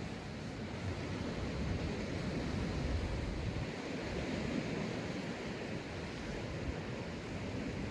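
Sea surf breaking and washing onto a sandy beach, a steady rush that swells and eases, with a low wind rumble on the microphone.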